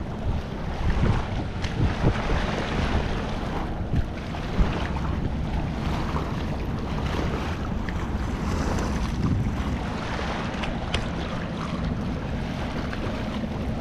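Wind buffeting the microphone: a steady rumbling noise, strongest in the low end, with a few brief knocks.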